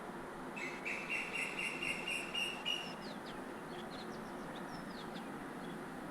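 A bird singing: a fast, slightly rising trill for about two seconds, then several short falling chirps, over a steady hiss.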